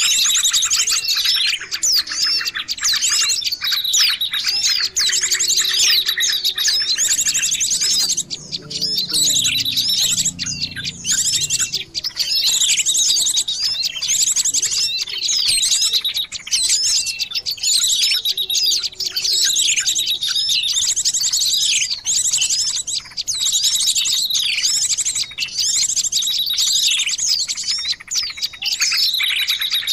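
Small songbirds' lure calls: dense high chirps and rapid trills, repeating in similar phrases every couple of seconds.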